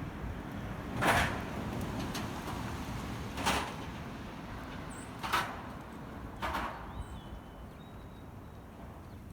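Strong gusty wind rumbling on the microphone, with four short, sharp noise bursts at irregular intervals, the first about a second in and the last about two-thirds of the way through; the rumble eases near the end.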